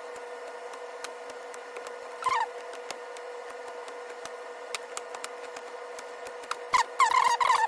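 A small wooden ball being sanded and shaped by a small motor-driven tool, whose steady high-pitched whine runs throughout. A short squeaky scrape comes about two seconds in, and repeated squeaky scraping bursts come near the end as the tool bites into the wood.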